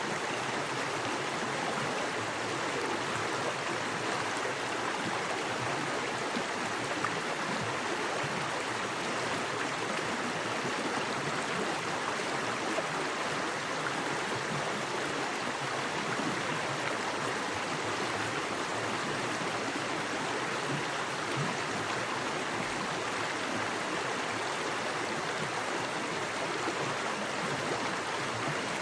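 Small woodland creek with fast water running over rocks: a steady, even rushing and splashing.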